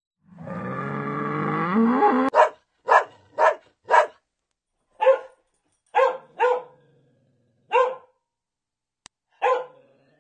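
A dog barking sharply about nine times at uneven intervals, after a drawn-out pitched call in the first two seconds that rises near its end.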